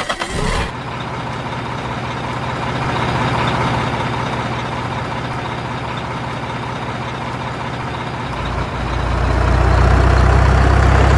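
Heavy truck engine running steadily, its low rumble swelling louder about eight seconds in.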